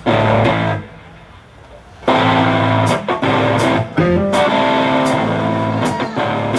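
Live band playing a song's instrumental intro led by guitar chords. The playing breaks off briefly about a second in and comes back in about two seconds in.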